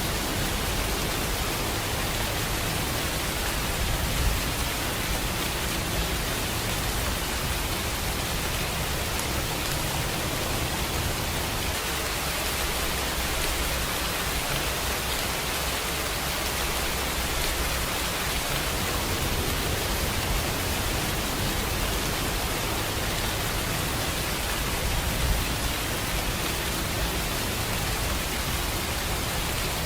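Steady, dense rainfall: an even hiss of rain with low rumbling underneath and an occasional slightly louder drop or thud.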